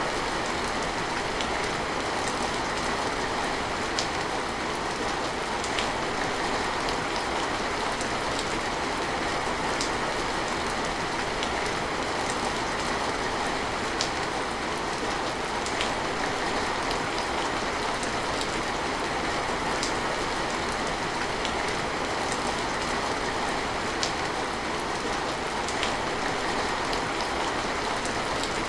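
Steady rain falling, a constant hiss with scattered individual drop ticks landing close by.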